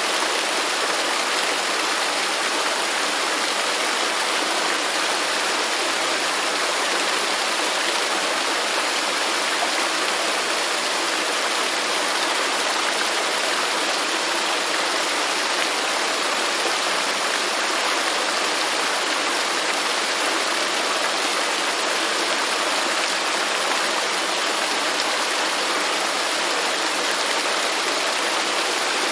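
Waterfall: falling water rushing steadily, with no change.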